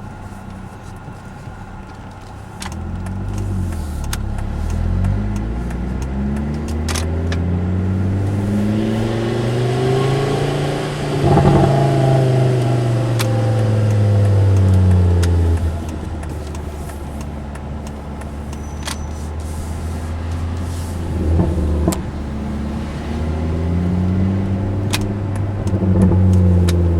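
2005 Volvo S40 T5's turbocharged five-cylinder engine through a custom exhaust with the rear muffler deleted, pulling under acceleration. Its note climbs steadily for several seconds, drops back to a lower, steadier pitch, then climbs again near the end.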